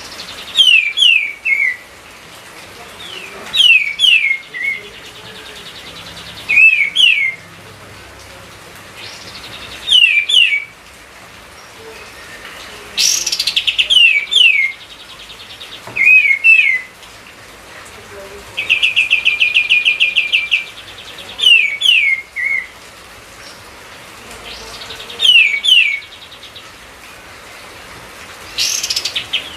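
Kapas tembak bird singing vigorously, with short phrases every few seconds of two or three quick falling whistles. Twice a fast rattling trill about a second and a half long comes in, over a steady hiss.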